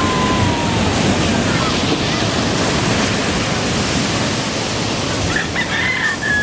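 Ocean surf breaking and washing in, a steady rush of water noise.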